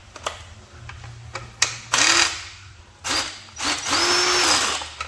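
Handheld power tool spinning a fastener on a transmission case in three bursts: a short one about two seconds in, another at about three seconds, then a longer one of about a second with the motor winding up, holding and winding down. A few sharp metal clicks come before the bursts.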